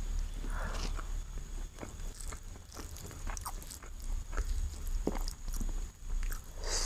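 Close-miked eating sounds of chicken biryani: biting and chewing, heard as scattered short mouth clicks and small crunches.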